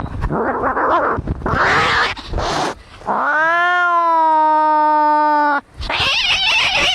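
Cats fighting: harsh snarls and hisses, then one long yowl that rises and holds steady for about two and a half seconds, followed by more hissing and spitting.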